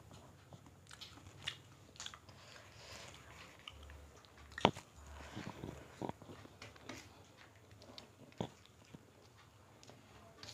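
Eating sounds of chicken curry and rice eaten by hand: chewing and lip smacks with scattered short clicks, the sharpest one about halfway through.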